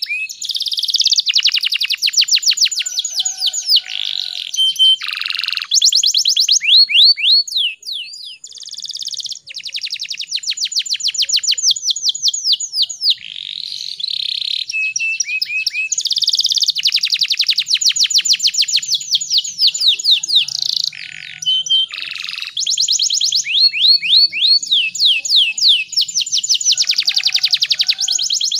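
Domestic canary singing: long, fast trills and rolls alternating with chirps and short sweeping whistled notes, with only brief pauses.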